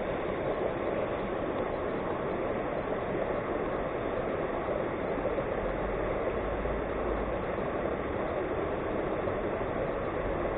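Steady rushing of water pouring over a weir, an even noise without rhythm, with a low rumble swelling briefly about six to eight seconds in.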